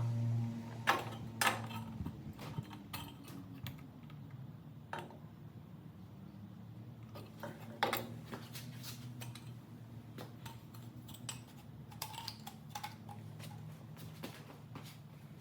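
Metal exhaust parts being handled and fitted: scattered light metallic clinks and knocks at irregular intervals, the loudest about a second in and near eight seconds. A motor's steady hum stops just after the start.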